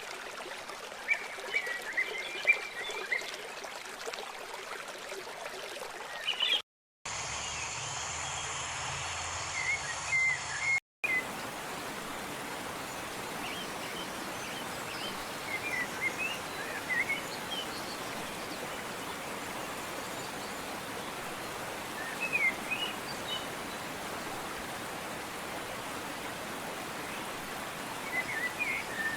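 Steady rush of running water with small birds chirping in short scattered bursts. The sound drops out briefly twice, about seven and eleven seconds in, where a differently recorded stretch is spliced in.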